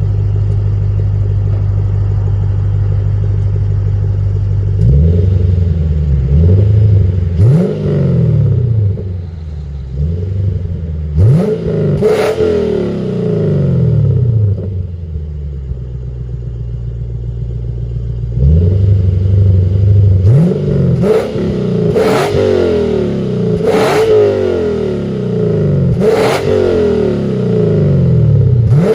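Lexus RC F's V8 through a valved RR Racing R2 catback exhaust with X-pipe. It idles steadily for about five seconds, then is revved in a string of throttle blips, each rising and falling back. It settles to idle for a few seconds midway, then comes a faster run of blips.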